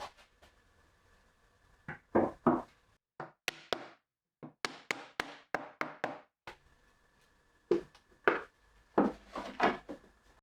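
Wooden parts knocking and clicking against each other as they are handled and fitted: a run of separate sharp knocks, a quick series of clicks in the middle, and more knocks near the end.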